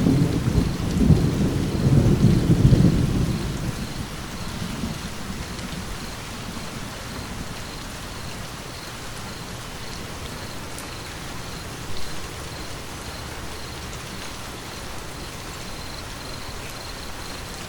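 Steady rain with a low roll of thunder at the start that dies away over the first few seconds.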